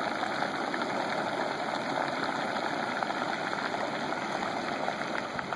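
Flash-flood water rushing steadily down a wash, a constant churning rush of floodwater.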